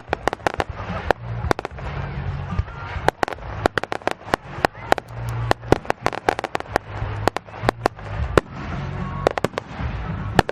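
Fireworks going off in quick succession: many sharp bangs and crackles, several a second.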